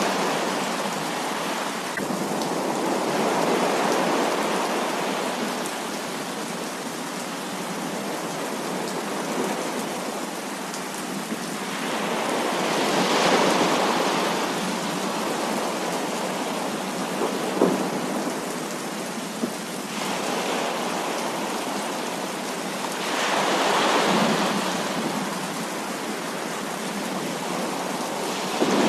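Heavy rain falling steadily during a thunderstorm, with three swelling rumbles of thunder about ten seconds apart and one sharp tap a little past halfway.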